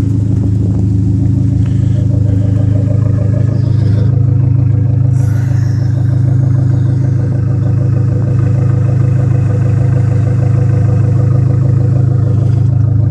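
Big-turbo 2004 Dodge SRT-4's turbocharged 2.4-litre four-cylinder idling steadily, its exhaust note an even, deep drone through a custom 3-inch exhaust with 4-inch tips.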